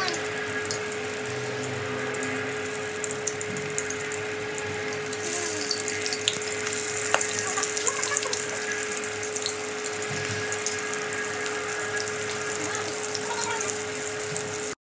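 Turon (banana and jackfruit spring rolls) sizzling in hot cooking oil in a wok: a steady frying hiss that grows louder about five seconds in. It cuts off abruptly near the end.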